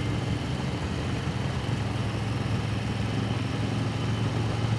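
Motorcycle engine running steadily at a cruising speed of about 43 mph, under the rush of wind and road noise.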